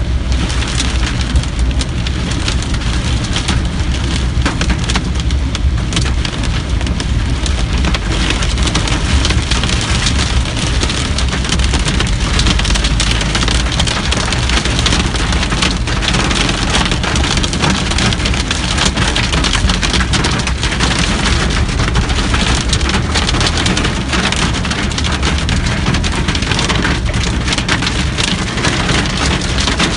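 Heavy rain mixed with hail pelting a car's roof and windshield, heard from inside the car as a dense patter of many sharp ticks. Underneath runs a steady low rumble of the car driving through the water.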